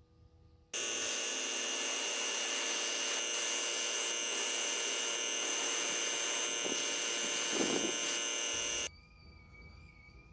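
Airbrush compressor running with the hiss of the airbrush spraying paint. It starts suddenly about a second in and cuts off after about eight seconds.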